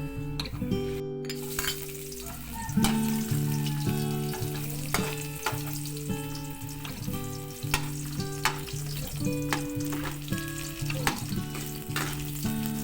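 Food sizzling as it fries in a pan, starting about a second in, with sharp taps and scrapes of a utensil stirring. Acoustic guitar background music plays throughout.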